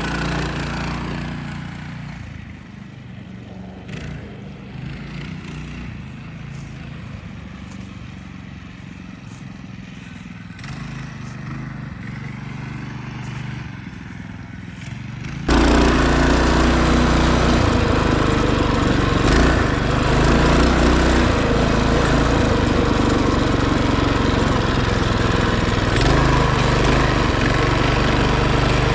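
Small minibike engine running under throttle, fading as the bike pulls away. About halfway through it turns abruptly much louder and rougher, as if heard right up close.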